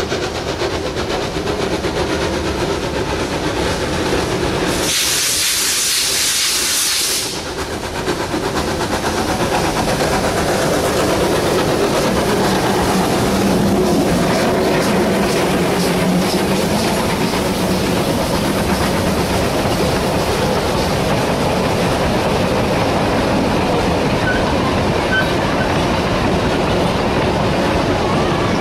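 Narrow-gauge steam locomotives G42 and 14A double-heading a train, with steady running noise and wheel-on-rail clatter. About five seconds in a loud burst of hissing steam lasts a couple of seconds.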